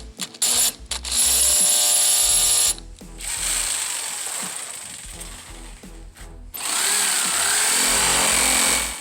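Jigsaw running and cutting half-inch plywood in two bursts: one about a second in lasting a second and a half, and one near the end lasting about two seconds, with quieter scraping between them.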